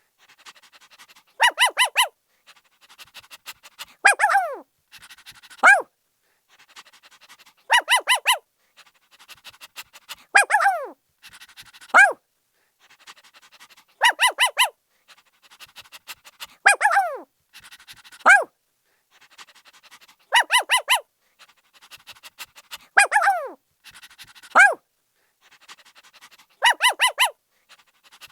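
Puppy barking in high yips: quick runs of three or four barks alternate with single yelps that slide down in pitch, with soft panting between. The same pattern repeats about every six seconds.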